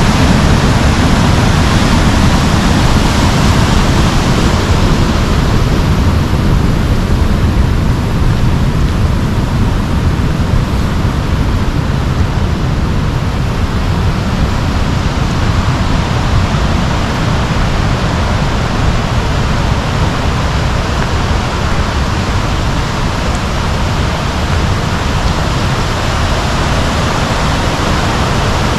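Rushing water of a mountain river, a loud, steady, unbroken noise.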